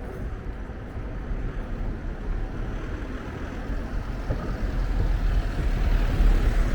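City street ambience: a deep, steady rumble that grows louder over the last few seconds.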